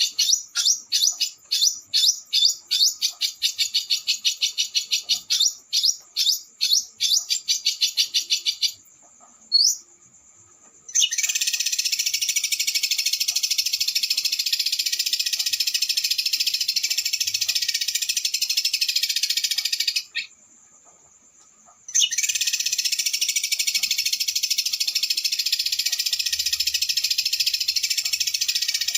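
Small songbird singing high-pitched: a run of rapid, sharp repeated notes for about nine seconds, a single rising note, then long fast buzzing trills (a 'roll speed' with harsh 'shots'), each broken off by a pause of about two seconds.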